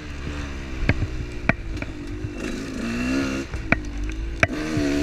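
Off-road vehicle engine running, its pitch rising and falling with the throttle, with repeated sharp knocks and clatter from rough ground under the wheels.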